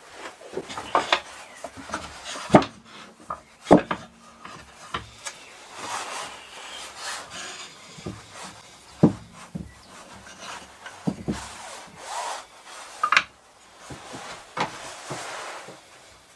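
Hand-tool work on wood: scraping and rasping strokes in short stretches, broken by irregular sharp knocks of wood being handled and set down, the loudest about a quarter of the way in and near two-thirds through.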